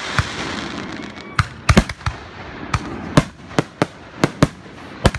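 Aerial fireworks shells bursting: about a dozen sharp bangs at irregular spacing, some in quick pairs, over a hiss that is loudest in the first second.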